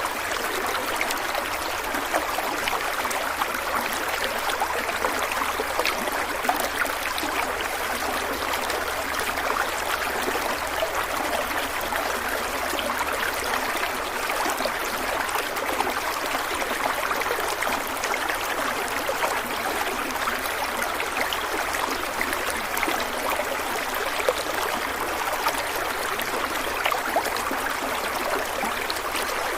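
Stream of water running and babbling steadily over stones, a constant rushing wash flecked with small splashes and gurgles.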